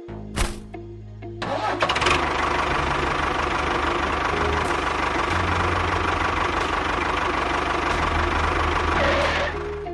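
A motor or engine starts about a second and a half in, after a short sharp knock, runs steadily with a constant whine, and cuts off just before the end.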